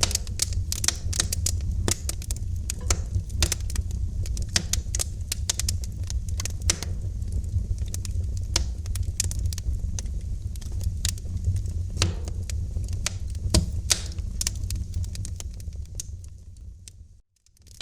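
Wood fire in a fireplace crackling and popping irregularly over a steady low rumble of flames. The sound fades almost to silence shortly before the end, then picks up again.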